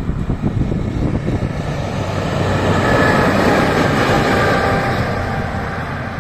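Train passing on the line, its rumble swelling to a peak about halfway through and then easing off, with wind buffeting the microphone.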